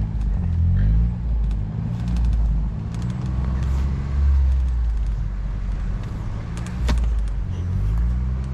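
A vehicle engine running, its pitch rising and falling as the driver works it through deep snow, struggling for grip in two-wheel drive. A sharp click sounds about seven seconds in.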